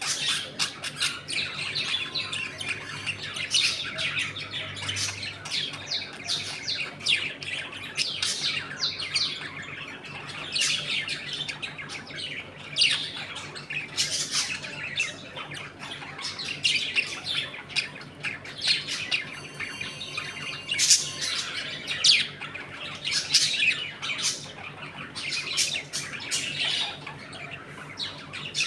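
A flock of budgerigars chattering, with dense overlapping chirps, warbles and squawks.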